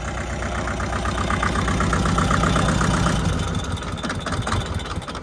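Tractor engine running at a steady rhythm, getting louder about halfway through and easing off toward the end.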